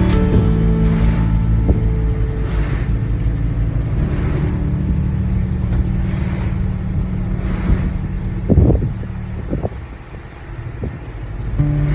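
Car driving on the road: a steady low engine and road rumble, with a few knocks and bumps about eight to nine seconds in and a brief easing near ten seconds.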